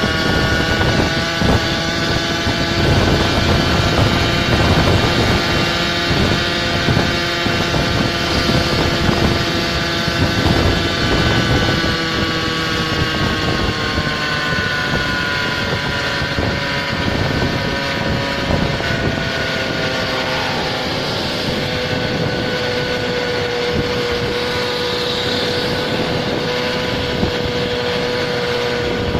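Small engines of motorized goped scooters running on the move, several engine notes sliding up and down in pitch before one settles into a steady note. Wind rumbles on the microphone.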